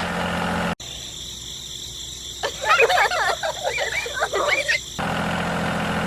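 A small engine running steadily cuts off abruptly about a second in. From about two and a half seconds in comes a run of rapid, squeaky, warbling chirps lasting about two seconds, and the steady engine sound resumes about five seconds in.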